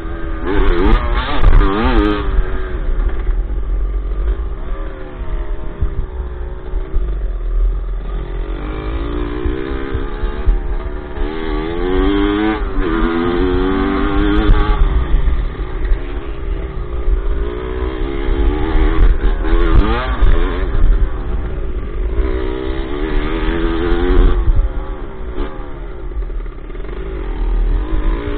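Dirt bike engine heard from onboard, revving up in repeated rising sweeps and dropping back as the rider accelerates and shifts gears.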